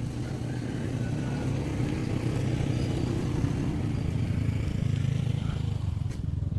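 An engine running with a steady low rumble, growing a little louder and then easing off near the end.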